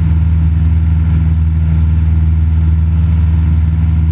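Cessna 172 Skyhawk's piston engine and propeller running steadily in level flight, heard from inside the cabin as a constant low drone.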